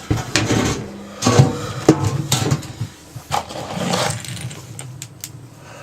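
Sheet-metal panel of a washing machine being pulled off and handled: a run of irregular clanks and knocks, some ringing briefly, thinning out near the end.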